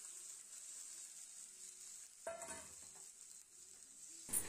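Goat blood and sautéed onions sizzling faintly in a kadai as the blood is stirred in with a steel spoon, with one short louder sound about two seconds in.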